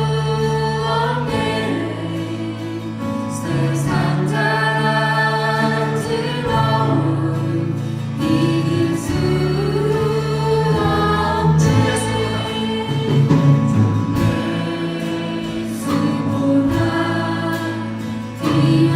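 Congregational worship song: a praise team and congregation singing in unison over a band's sustained keyboard chords and bass.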